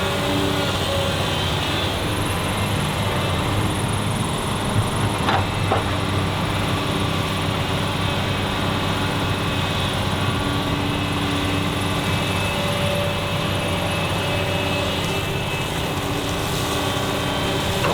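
Excavator's diesel engine running steadily under load, with a couple of brief knocks about five seconds in.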